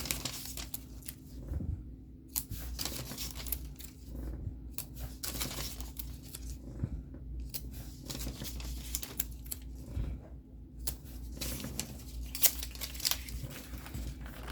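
Paper sheets being handled in the hands, in irregular rustling bursts.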